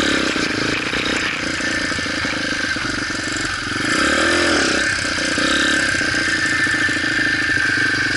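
Motorcycle engine running under way, steady, with a brief rise and fall in revs about four seconds in.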